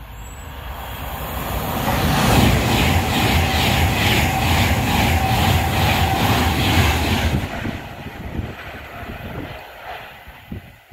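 Electric passenger train running through the station at speed: its noise builds over about two seconds, then a loud rush with a regular beat of wheels over the rails, about twice a second, for some five seconds, before it fades away.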